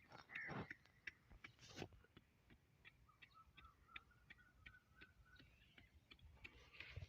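Near silence, broken by faint irregular ticking clicks and two soft thumps in the first two seconds.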